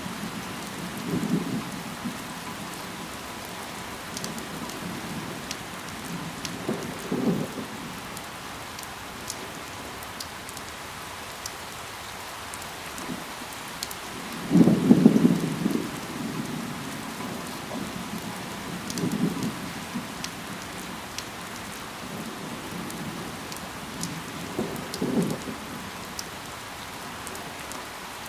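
Steady rain with fine ticks of individual drops. About every five or six seconds comes a short, deeper swell lasting about a second, five in all, the loudest about halfway through.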